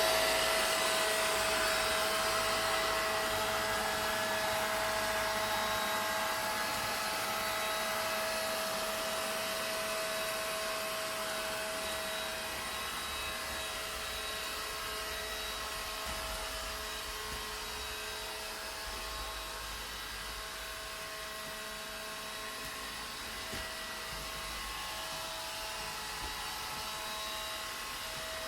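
A vacuum cleaner running steadily: a rushing hiss with a steady motor whine through it, getting slightly quieter over the first twenty seconds or so.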